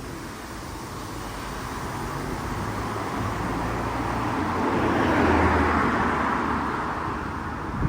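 A car driving past: tyre and engine noise that grows louder, peaks about five seconds in, then fades.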